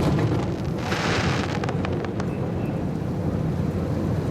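Fireworks exploding: a boom at the start over a continuing low rumble, then a crackling hiss about a second in with scattered pops.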